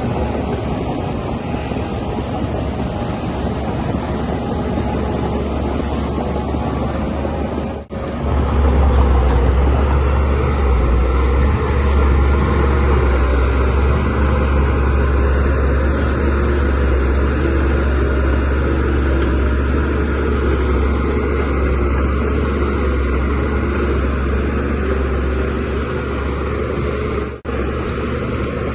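Shantui DH17C3Pro bulldozer's diesel engine running steadily under work, with a strong low hum. The sound drops out for an instant about eight seconds in and again near the end, and is louder after the first dropout.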